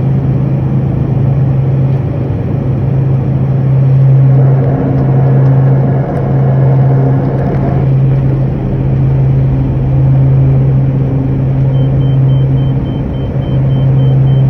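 Aircraft on its takeoff run: loud, steady engine drone and rumble. Near the end a rapid, high-pitched beeping starts.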